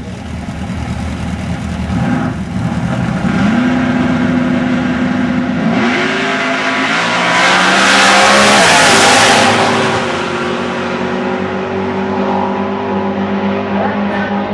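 Two Ford-powered Mustang drag racing cars launch side by side and run a pass down the drag strip. The engine pitch climbs and steps down at each gear change, and the sound is loudest about seven to ten seconds in before easing off.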